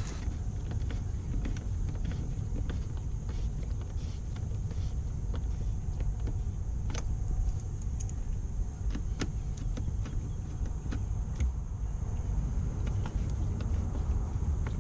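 Steady low rumble under scattered light clicks and taps of hand tools and metal parts being handled during work on a Cummins ISX engine's crankcase filter.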